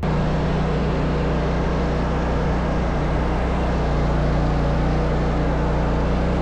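Engine of snow-removal equipment running steadily at a constant speed, a loud low hum with a wash of noise over it, cutting in abruptly at the start.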